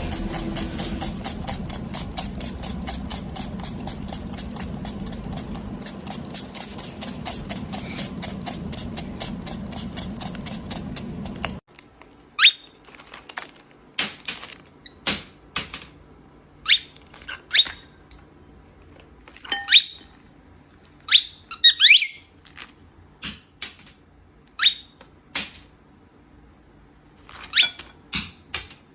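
A rapid, even clicking over a low hum cuts off suddenly about a third of the way in. After it come short, sharp cockatiel chirps, one at a time and in quick pairs, each falling in pitch.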